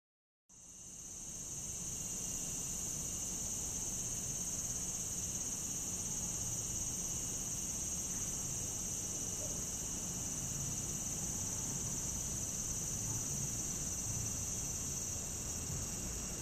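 Cicadas calling in a steady, high-pitched drone. It starts after a brief silence and swells up within the first couple of seconds.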